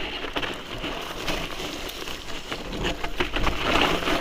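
Mountain bike rolling over a rough, stony trail: a steady crunch of tyres on gravel with many irregular clicks and rattles, over a low wind rumble on the microphone.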